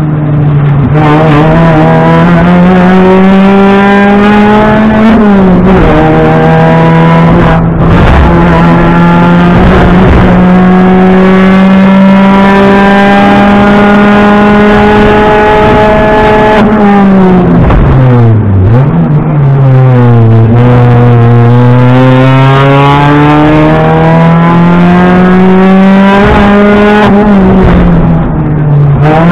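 Rally car's engine at high revs, heard from inside the cockpit, mostly held at a fairly steady pitch. The revs drop sharply a little past halfway, then climb slowly again, with a brief dip at a gear change about five seconds in and another near the end.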